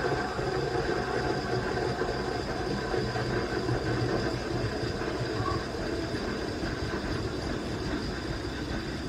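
De'Longhi La Specialista steam wand frothing half-and-half in a milk pitcher: a steady rushing hiss as the milk is whirled and foamed, growing slightly quieter toward the end.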